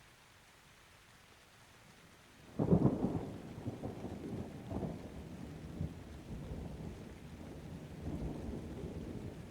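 Faint steady rain, then a sudden thunderclap about two and a half seconds in that rolls on as a long, uneven rumble with several smaller swells.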